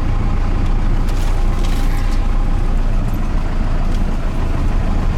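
Ford F-150 pickup with a Cummins 4BT diesel swap driving slowly, its engine giving a steady low drone at low speed, with a few faint clicks over it.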